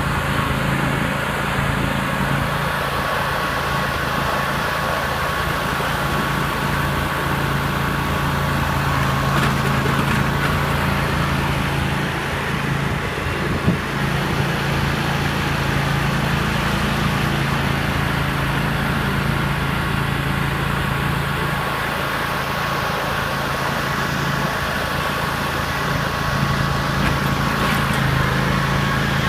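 Riding lawn mower's small engine running steadily at an even speed, with one brief knock about halfway through.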